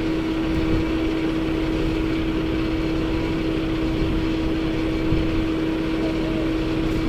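Steady vehicle running noise: a continuous rumble with a constant hum.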